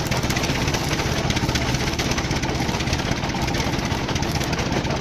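An engine or motor running steadily at an even idle, with a rapid, regular pulsing.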